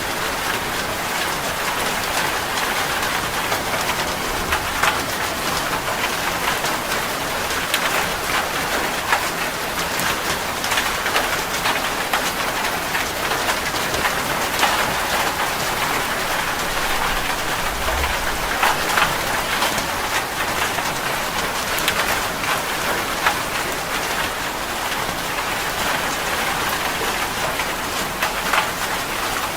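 Heavy rain drumming steadily on a metal roof: a dense, even hiss full of sharp individual drop impacts.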